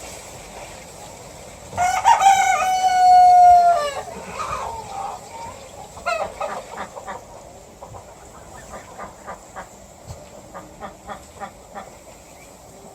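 A rooster crowing once in one long call of about two seconds, followed by a run of short clucks.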